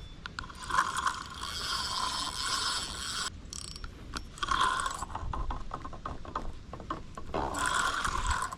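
Fishing reel clicking and whirring in stretches of a second or two as its gears and ratchet work.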